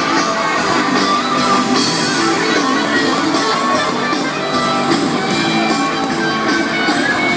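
Loud live rock concert music with guitar, a faint crowd under it.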